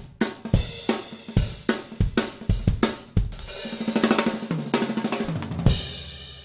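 Gretsch Renown Purewood Hickory drum kit played with cymbals: a steady groove of kick, snare and hi-hat, then a run of fast hits about halfway through, ending on one hard accented hit near the end that rings out and fades.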